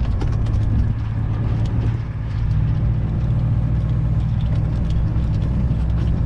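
Semi-truck's diesel engine pulling steadily under load in fourth gear, with a brief drop in loudness about two seconds in.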